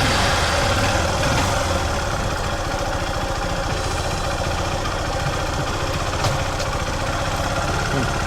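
Honda XR150L single-cylinder motorcycle engine running steadily with an even, rapid pulse.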